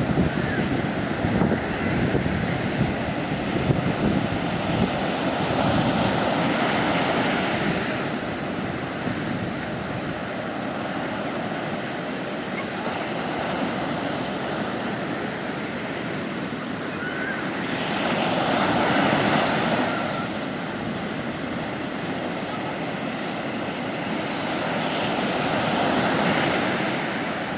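Sea waves washing onto the beach: a continuous surf hiss that swells louder three times as waves break, about a quarter of the way in, about two-thirds in and near the end.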